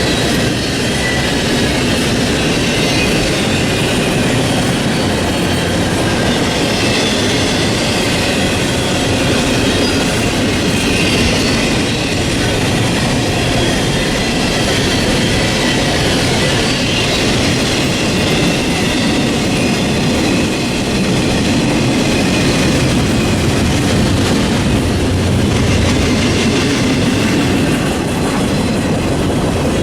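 Freight train cars rolling past on the rails: a loud, steady rolling noise with faint, thin high-pitched squealing from the wheels running above it.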